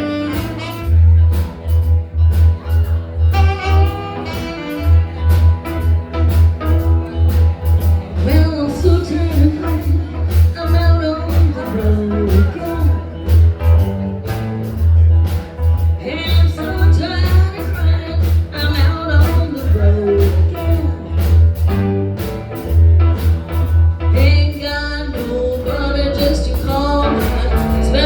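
Live blues band playing, with a steady drum beat, a heavy bass line and a bending lead melody over it.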